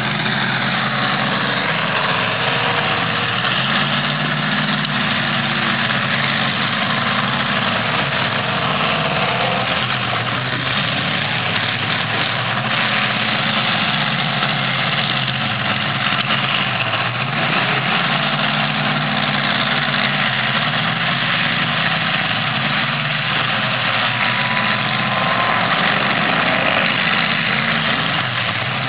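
Demolition derby car engines running steadily and loud, with a dense roar of exhaust noise over a low engine hum.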